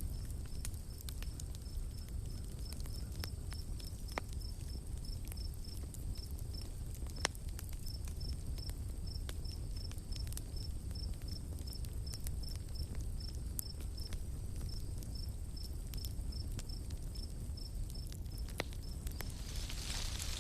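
Campfire crackling, with scattered sharp pops over a low steady rumble. An insect chirps regularly, about three times a second, over a steady high insect drone. A brief hiss rises near the end.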